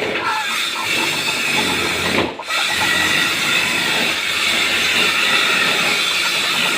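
White-breasted waterhen calling continuously amid heavy hiss, breaking off briefly a little over two seconds in.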